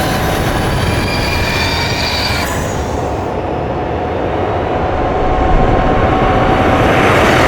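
Harley-Davidson LiveWire electric motorcycle running at speed: a steady high whine from the electric drive over a rushing rumble of wind and road. The highest whining tones drop out about two and a half seconds in.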